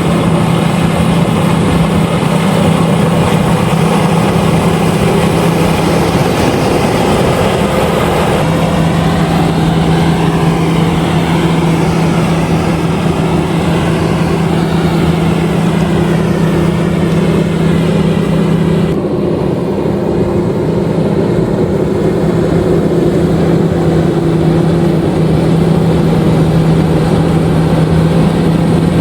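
LOVOL RG130EVO rice combine harvester running steadily while harvesting: a loud, constant engine hum under a dense mechanical clatter and hiss. About two-thirds of the way through the high hiss drops off suddenly while the hum continues.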